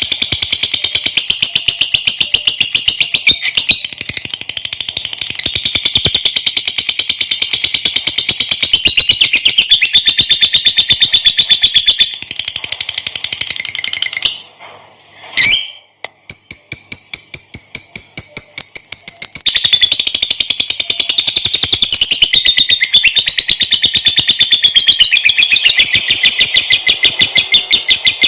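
Lovebird's long 'ngekek' song: a rapid, high-pitched chattering trill of quickly repeated notes. It breaks off briefly about halfway through, then resumes.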